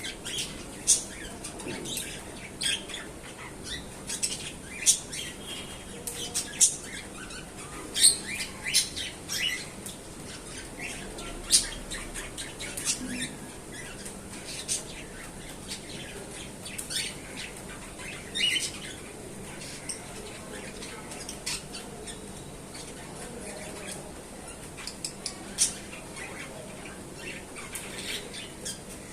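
Cockatiel chirping and squawking in short, sharp, high-pitched calls that come irregularly, a few of them loud.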